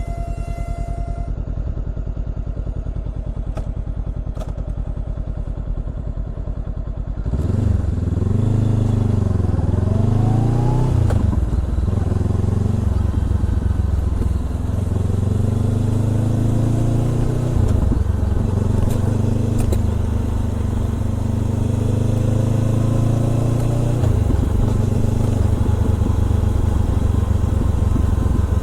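Honda CBR400R parallel-twin engine through a Trick Star Ikazuchi exhaust, ticking over steadily. About seven seconds in it gets louder as the bike pulls away, the pitch climbing and dropping back with each of several quick upshifts. It then runs on at a steady cruise with a few smaller throttle rises.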